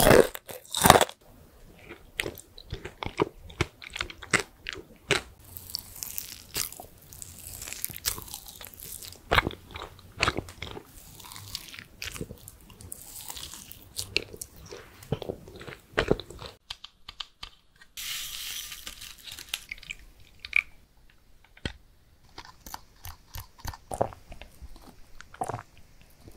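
Close-miked eating sounds: hard candy crunched between the teeth, then a soft fried pastry bitten and chewed, as a run of sharp crunches and wet chewing. Partway through there are about two seconds of steady hissing, and a few more crunches follow.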